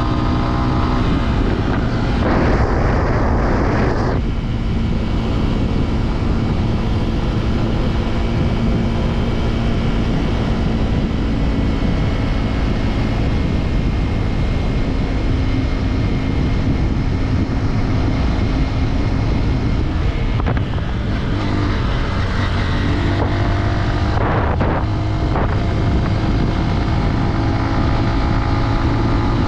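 Off-road vehicle's single-cylinder four-stroke engine running while riding, its pitch shifting with the throttle. Wind rushes over the microphone, strongest about two to four seconds in and again about twenty-four seconds in.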